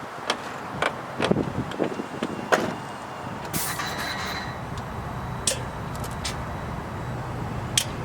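Knocks and clicks of a truck door and cab being handled, then a short hiss about three and a half seconds in and a low steady hum near the end.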